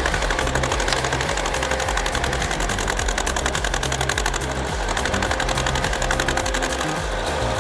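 Engines running hard under load in a tractor-versus-Jeep tug-of-war: a rapid, even clatter that holds steady throughout.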